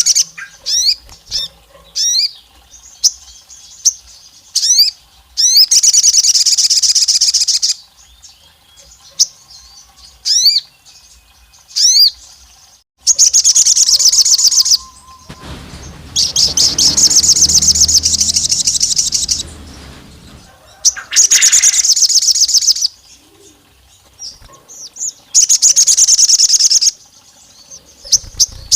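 Sogon songbird singing: a run of quick rising chirps, then high, rapid trills in bursts of one to three seconds, repeated about five times. A low rumble sits under the trill about the middle.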